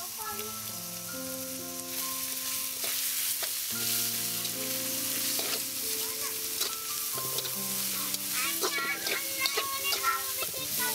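Carrots, green beans and onion sizzling in oil in a pan while a spatula stirs them. The spatula scrapes the pan more often and more sharply in the last few seconds.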